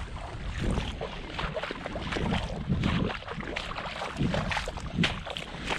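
Low rumble of wind on the microphone with irregular knocks and rustling.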